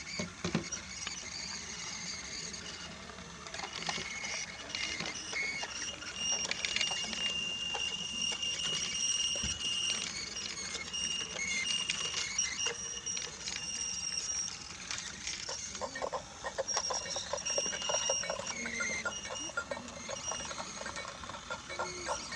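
Battery-powered Brio toy train running on wooden track: its small motor gives a high, steady whine, over dense clicking and rattling of the wheels on the wooden rails and joints.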